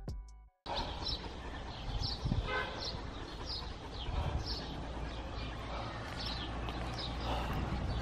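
A bird chirps over a steady outdoor hiss, a short falling chirp roughly once a second. This starts just after a brief silence at the end of the music.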